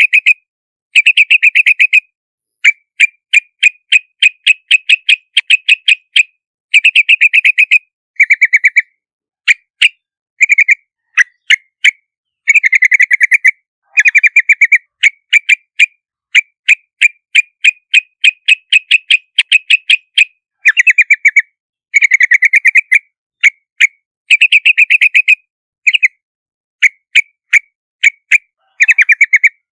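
Yellow-vented bulbuls calling: rapid runs of short, sharp chattering notes in phrases of a second or so, separated by brief pauses, repeating throughout.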